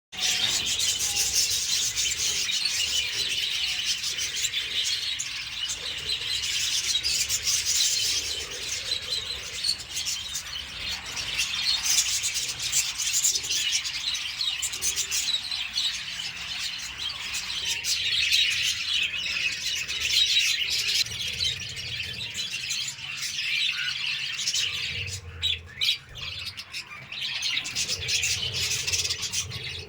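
Parrots chirping and chattering continuously, many high calls overlapping, with a brief lull near the end.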